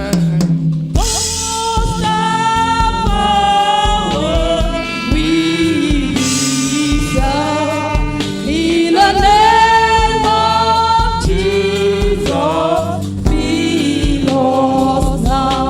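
Gospel praise singing, a lead voice with a choir, over a steady band with bass and drums.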